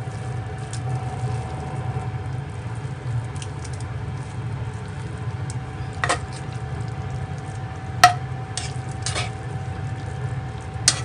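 Kitchen utensils clinking against cookware a few times, with soft stirring sounds, over a steady low hum.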